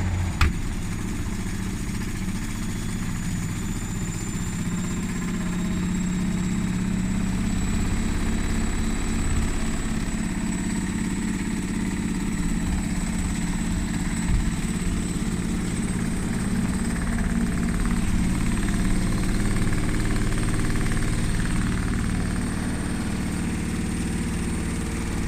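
Indesit washing machine drum spinning at full speed with the door open. The motor runs with a steady low rumble and a high thin whine that rises slightly over the first few seconds, then holds. There is one knock about halfway through. The motor's carbon brushes are worn and need replacing.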